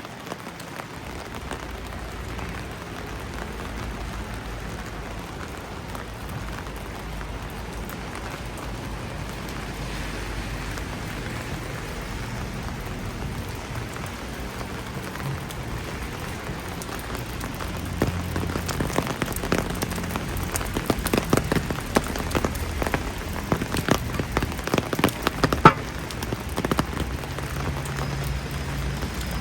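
Steady rain falling. From about two-thirds of the way in, sharp, irregular drop taps rise above it, close and louder, with the loudest tap near the end.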